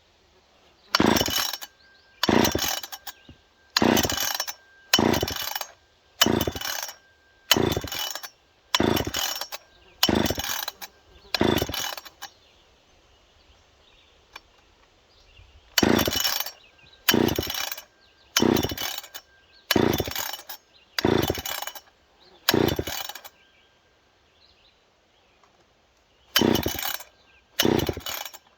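Old Poulan 306A two-stroke chainsaw being pull-started: the recoil starter is yanked about once a second, each pull spinning the engine over briefly without it catching, in a run of about ten pulls, a pause, about seven more, another pause, then two. The saw has not been run in a long time and was drained of fuel and oil, so it is slow to fire.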